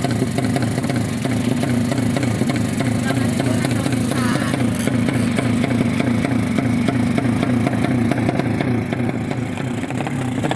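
A 200cc underbone racing motorcycle engine running steadily, with a fast even pulsing and no clear rise or fall in revs. Voices can be heard faintly under it.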